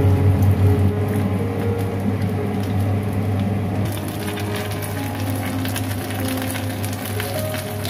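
Oyster omelette batter frying in a nonstick pan, sizzling, with the crackle growing denser and sharper about halfway through. A steady low hum runs underneath.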